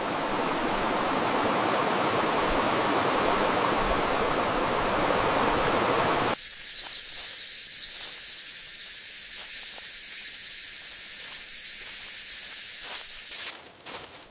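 Steady rush of running water, like a stream or small waterfall. It cuts off abruptly about six seconds in to a thin, high-pitched hiss of outdoor ambience with faint ticks. A brief loud hit comes near the end, then the sound drops away.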